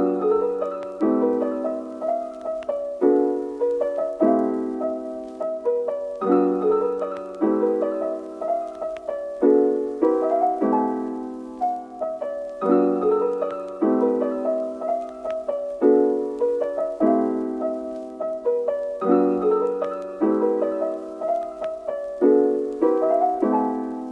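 Background piano music: soft chords struck about once a second, each ringing and fading, in a repeating pattern.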